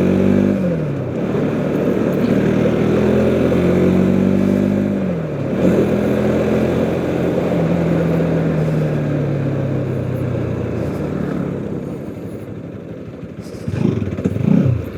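Motorcycle engine running under way, its pitch climbing as it accelerates, dropping at a gear change about five seconds in, then slowly falling as the bike eases off, with road and wind noise underneath.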